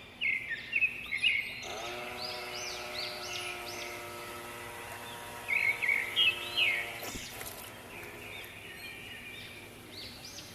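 Small birds chirping over and over in quick, rising-and-falling calls. A steady, pitched drone of several tones joins them from about one and a half seconds in and stops suddenly about seven seconds in.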